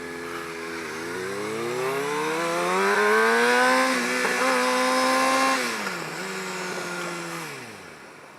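Kawasaki ZX-6R 636 inline-four sport bike engine under way with wind rush: the engine note climbs as the throttle opens for about two seconds, holds high, drops back about halfway through, then falls away near the end as the bike slows.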